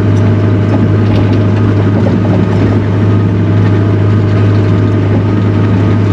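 Takeuchi TL240 skid steer's diesel engine running steadily with a strong, even hum.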